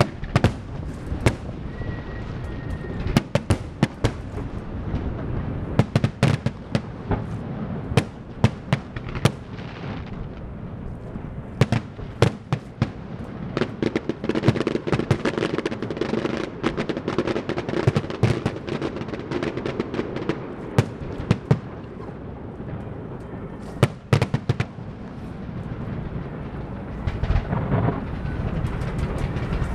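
Fireworks and firecrackers going off: many irregular sharp bangs and cracks, some in quick clusters, over a steady low rumble.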